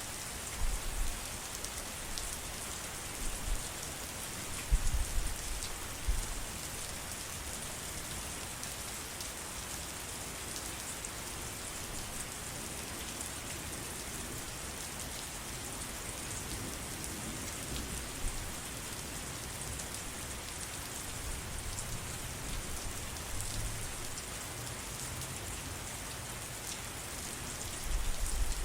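Steady rain falling on surfaces, an even hiss with a few brief low thuds.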